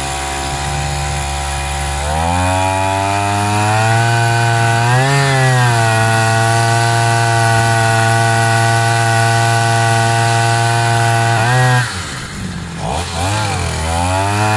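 Small two-stroke grass-trimmer engine (40 mm bore) driving a long-tail boat's propeller shaft. It runs at low speed for about two seconds, is throttled up and holds a steady high-revving note with a brief rise around five seconds, drops off near twelve seconds, then revs up again just before the end.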